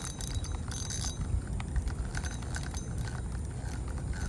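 Fishing reel clicking and rattling as a hooked channel catfish is reeled in, over a steady low rumble.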